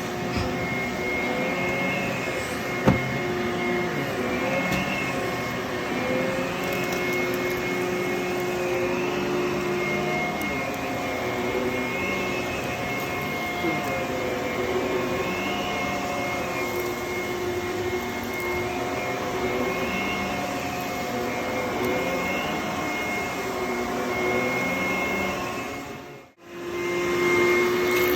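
HYLA water-filter vacuum cleaner running on carpet: a steady motor whine with part of the sound rising and falling about every two seconds. One sharp click about three seconds in. Near the end the sound drops out briefly and returns.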